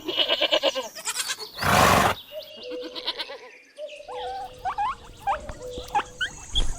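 Pony whinnying, a wavering high-pitched call, then a short loud snort about two seconds in. From about four seconds on, a string of short high rising chirps follows.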